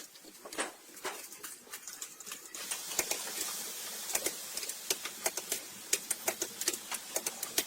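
Quick, irregular clicks and taps, a few a second, as of hand tools and metal parts being handled during engine work. A steady hiss joins in about two and a half seconds in.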